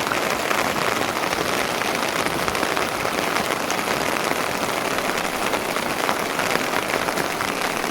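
Rain falling steadily, a loud, even hiss of many drops with no letup.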